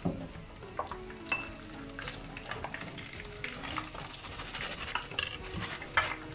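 Fish pieces frying in hot oil with a steady crackling sizzle, while a stainless steel mesh strainer scoops them out, clicking and scraping against the pan, with a sharper knock near the end.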